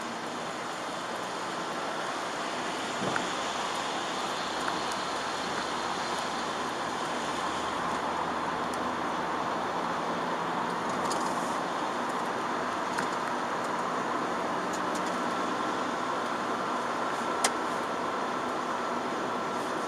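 Chevrolet Aveo with its 1.4 petrol engine driving on wet city roads: a steady rush of tyre and road noise with the engine under it, growing a little louder over the first several seconds. A sharp click comes near the end.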